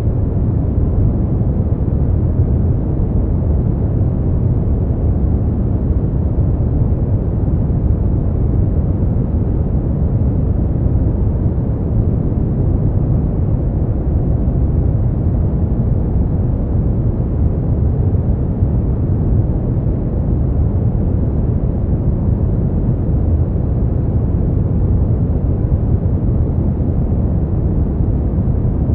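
Steady brown noise: a constant, deep rumbling hiss, strongest in the bass and fading off in the highs, with no changes or events.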